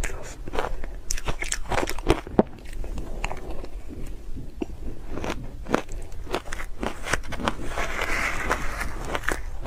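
Ice being bitten and chewed close to the microphone: an irregular run of sharp crunches and cracks, turning to a softer, grainier crunching near the end.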